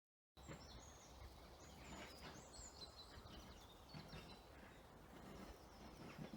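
Faint birdsong outdoors: small birds chirping and whistling in quick short calls over a steady low background rumble.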